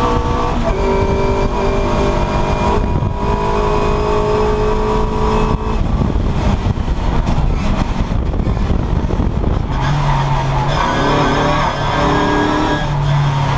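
Classic Mini race car's four-cylinder engine heard from inside the stripped cabin while lapping a circuit, over constant road and wind noise. The engine note holds steady, breaks up about six seconds in, and comes back at a lower pitch about ten seconds in.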